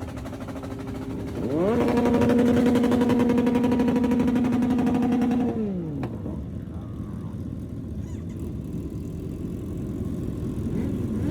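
Motorcycle engine revved up quickly and held at a steady high speed for about four seconds, then dropping back to a low idle, and starting to rise again near the end.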